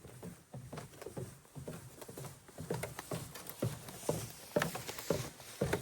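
Hikers' footsteps climbing a flight of trail steps: a steady run of short crunching footfalls, several a second, getting louder toward the end.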